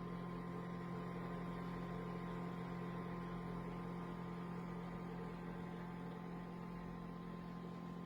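A steady electrical hum with a faint high steady whine above it, unchanging throughout.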